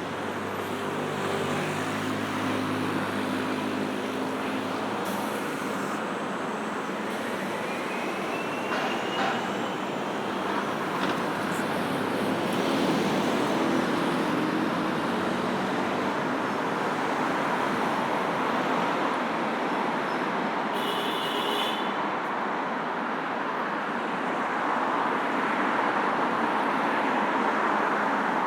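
Steady road traffic on a busy city road: the continuous rush of cars and other vehicles passing, with one vehicle's engine running low and close in the first few seconds.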